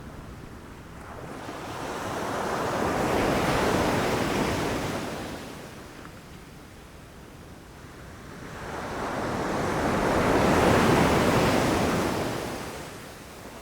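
Ocean surf: waves rushing in and washing back, a wash of water noise that swells and fades twice, peaking about four seconds in and again near the end, the second a little louder.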